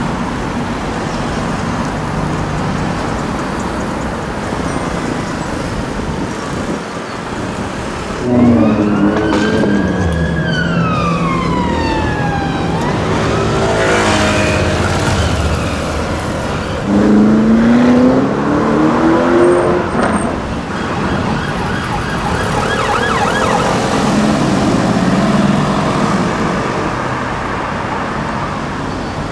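Performance car engines revving and accelerating past in busy city traffic, with loud surges about 8 seconds in and again near 17 seconds. A siren wails once, rising and then falling, between about 9 and 13 seconds.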